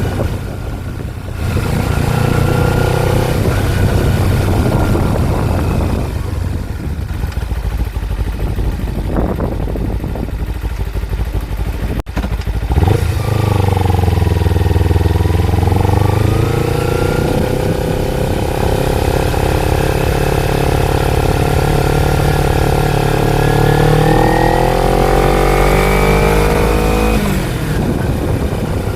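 Kawasaki Ninja 250 parallel-twin engine heard while riding, with wind rushing over the microphone. About halfway through, the engine note dips and then climbs steadily for over ten seconds as the bike accelerates, then drops sharply near the end.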